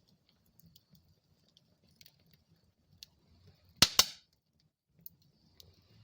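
Wood fire in a fireplace crackling faintly over a soft low rumble, with two sharp, loud pops in quick succession about four seconds in as the burning wood splits.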